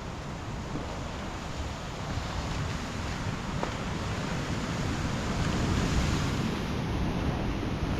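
Steady rush of surf with wind on the microphone, swelling louder through the middle of the stretch.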